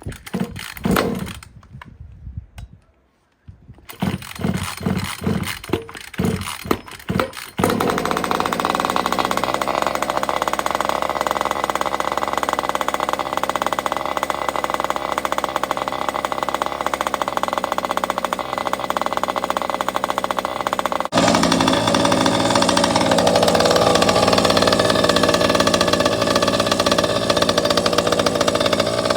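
36cc two-stroke petrol engine of a 1/5-scale RC rally car on its first start: a series of short bursts as it is turned over, then it catches about seven or eight seconds in and runs steadily. About 21 seconds in the sound jumps abruptly louder and keeps running.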